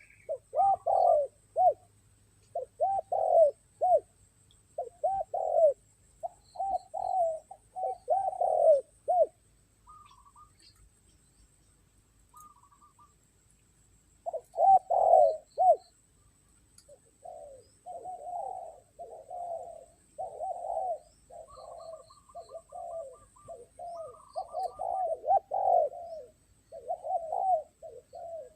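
Spotted doves cooing in repeated low phrases, with a pause of several seconds about a third of the way in, then phrases following closely one after another through the second half. A few faint short chirps come in between.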